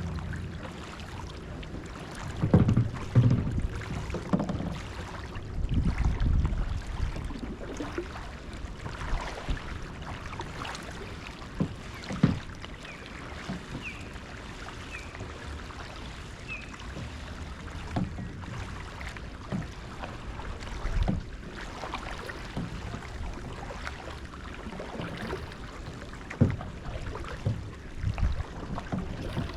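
Kayak being paddled: paddle strokes and water sloshing, with scattered light knocks. There are heavier low rumbles about three and six seconds in.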